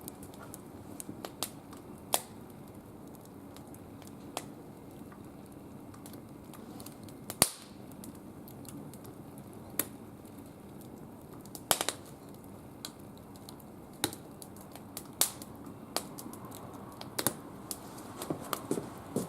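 Wood fire in a barbecue grill crackling, with scattered sharp pops, the loudest about seven and twelve seconds in.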